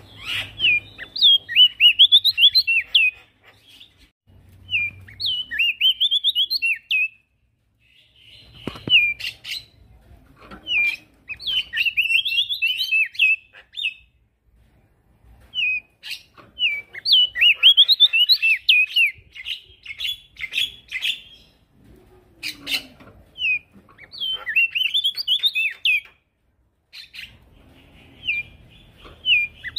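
Male prenjak daun singing: repeated bursts of fast, high, twittering song, each a couple of seconds long with short pauses between.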